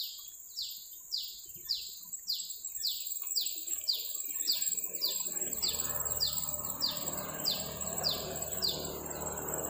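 A bird calling over and over, a short high note sweeping downward about twice a second, over a steady high-pitched insect-like hiss. About halfway through a low rumble joins in.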